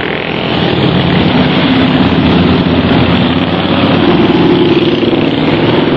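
Several motorcycle engines running loudly together as a group of riders passes, with one engine's note rising about two thirds of the way in.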